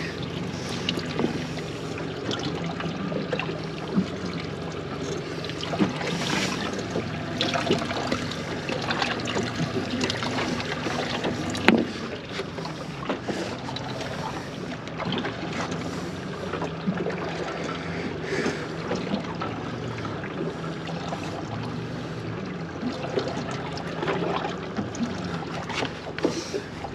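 Steady wind and water noise aboard a small open fishing boat at sea, with scattered knocks and clicks of gear being handled and one sharper knock about twelve seconds in.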